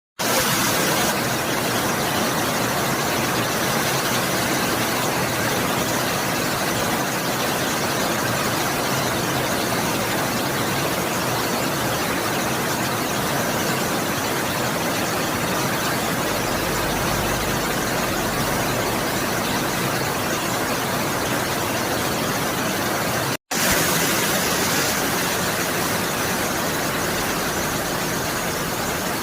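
Heavy rain falling, a steady even hiss that drops out for a moment about 23 seconds in.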